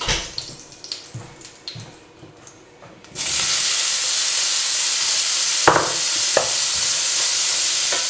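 Grilling-cheese cubes hitting hot oil in a very hot frying pan. After about three seconds of light crackling, a sudden loud sizzle starts as the cheese goes in and keeps frying steadily, with two knocks against the pan partway through.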